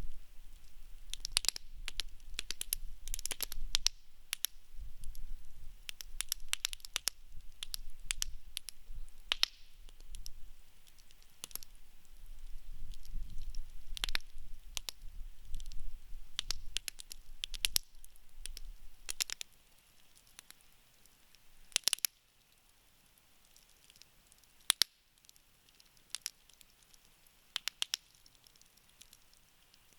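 Wood campfire crackling, with frequent sharp pops and snaps over a low rumble; about two-thirds of the way through the rumble drops away and only scattered pops remain.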